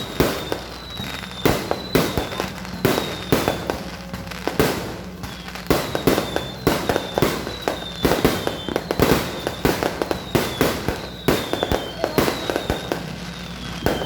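Fireworks bursting in an irregular string of sharp bangs, about one or two a second, with short falling whistles between them.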